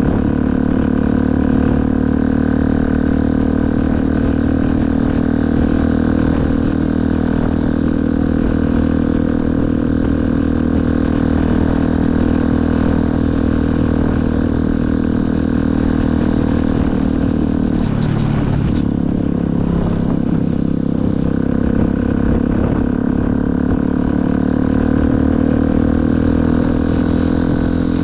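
Motorcycle engine running steadily while riding. Its pitch drops suddenly about two-thirds of the way through, then climbs again.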